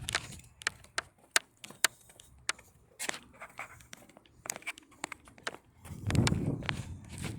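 Footsteps on a hard surface, a sharp step about every half second, with a louder low rumble about six seconds in.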